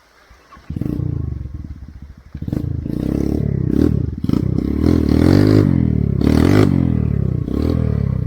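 Motorcycle engine revving hard and unevenly, its pitch rising and falling again and again, starting about a second in.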